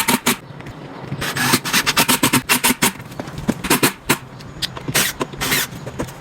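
Quick, irregular run of sharp knocks and clicks from work on a wooden cabinet, after a brief pause near the start.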